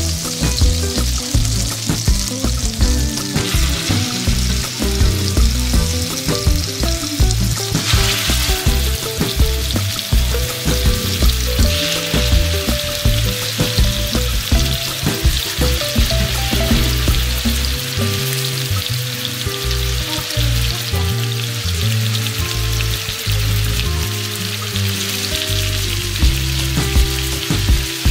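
Butter and olive oil sizzling in a pot as chicken breasts fry in the hot fat, a steady crackling hiss that grows louder about eight seconds in. Soft background music runs underneath.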